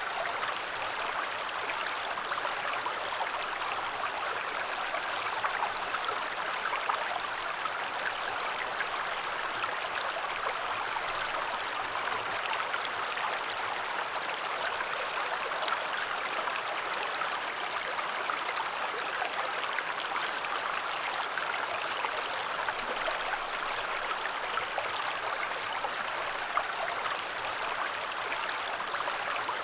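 Matsukawa river flowing with a steady, even rush of water.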